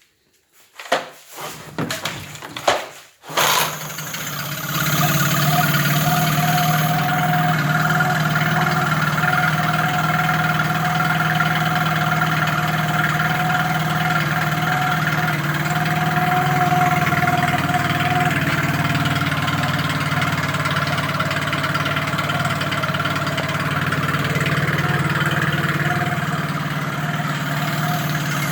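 Yamaha F25 four-stroke outboard motor starting: a few short bursts as it is cranked, then it catches about three and a half seconds in and settles into a steady idle.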